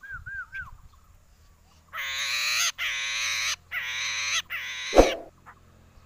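Caged poksay mandarin laughingthrush calling: a few falling whistled notes at the start, then four harsh, rasping calls in a row, each well under a second. A sharp knock follows about five seconds in.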